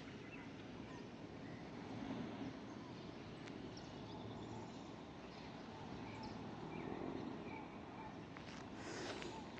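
Steady outdoor street ambience, a soft even hiss, with a few faint bird chirps. Footsteps start again near the end.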